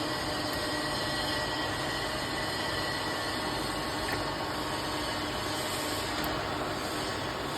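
X6325 turret milling head running steadily: an even mechanical running noise with a few faint steady tones and no change in speed.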